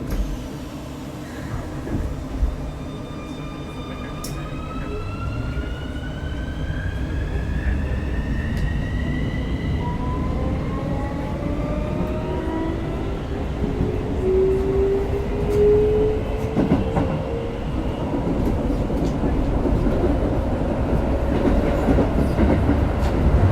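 Keikyu 1000-series train with Siemens GTO VVVF inverter traction equipment, heard from inside the car while accelerating. Its motor whine rises in pitch in several steps, with several tones sounding together. Wheel and track rumble grows steadily louder underneath.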